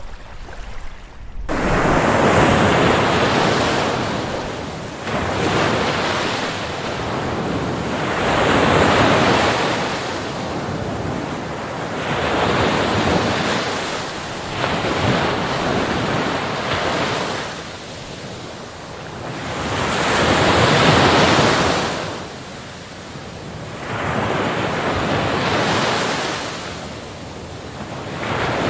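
Ocean waves breaking on a beach. The surf starts abruptly about a second and a half in, then swells and fades every three to four seconds.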